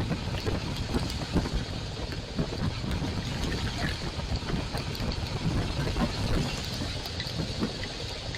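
Royal Enfield Classic 350's single-cylinder engine running while riding, under wind buffeting on the action-camera microphone and a steady hiss.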